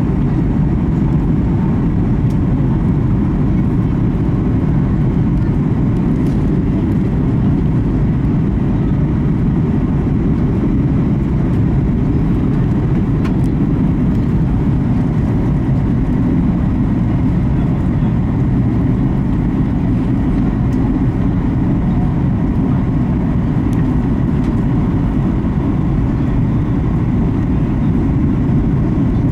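Steady in-cabin noise of a Boeing 737 MAX 8 on approach: its CFM LEAP-1B engines and the rush of air past the fuselage make an even, deep roar, with faint steady tones above it.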